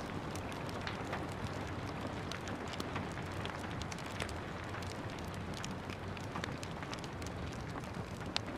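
Steady rain with a wood fire crackling over it in frequent small pops, one sharper pop near the end.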